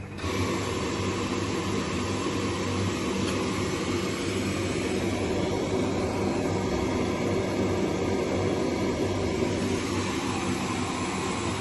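Zanussi FLS-822CH washing machine running during a 95°C drum-clean programme: a steady machine whir with a low hum that comes in suddenly at the start.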